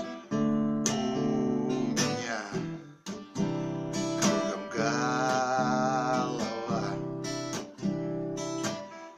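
Fender CD-60S acoustic guitar strummed as accompaniment while a man sings a slow Russian song in long, drawn-out notes, one held with vibrato around the middle.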